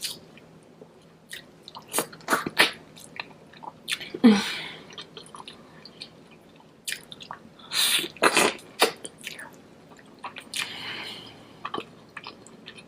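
Close-up chewing of oxtail and curry goat: irregular wet smacks and clicks of the mouth, with a few longer noisy stretches.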